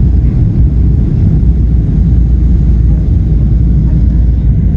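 Steady, loud low rumble of an airliner in flight heard inside the cabin: jet engine and airflow noise.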